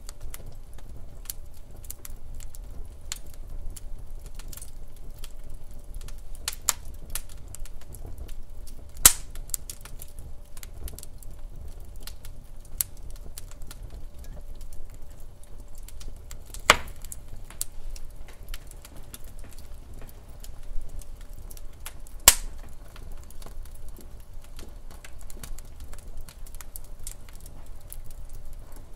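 Wood fire burning in a fireplace, crackling with frequent small snaps and a few louder pops.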